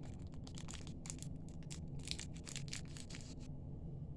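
Small plastic packet crinkling and rustling in the hands as a magnet clasp is taken out of it, in quick crackly clicks that stop near the end.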